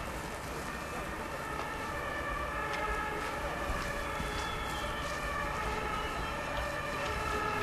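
Articulated passenger railcar standing at the platform with its equipment running: a low rumble under several steady whining tones.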